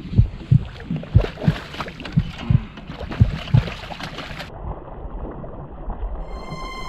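Irregular low thumps and knocks on a kayak, about two a second, over a wash of water and handling noise; music fades in near the end.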